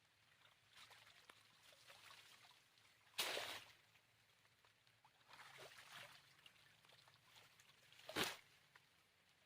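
Faint water trickling and splashing, with two short, louder splashes: one about three seconds in and one near the end.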